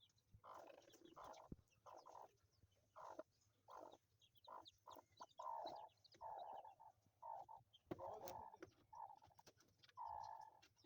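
Broody hen clucking quietly and repeatedly, about two short clucks a second, with faint high peeping from her newly hatched chicks.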